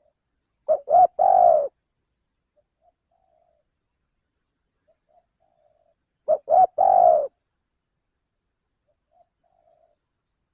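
Male spotted dove cooing: two loud three-note phrases, each two short notes and a longer one, about five and a half seconds apart, with fainter short coos between them.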